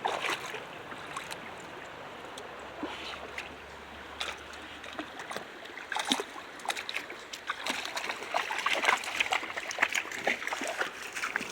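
Shallow brook running steadily, with splashing in the water that starts about six seconds in and grows busier toward the end.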